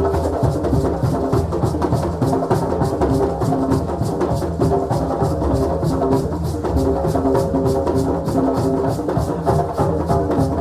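Group of African drums playing a fast, steady, driving rhythm, with sustained pitched notes running over the beat.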